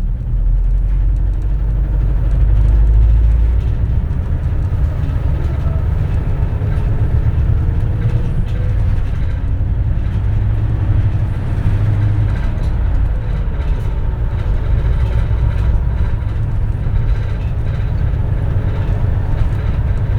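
Cabin running sound of a 2004 compressed-natural-gas city bus under way: a steady low engine and road rumble, with a faint drivetrain whine rising and falling in pitch as the bus speeds up and slows.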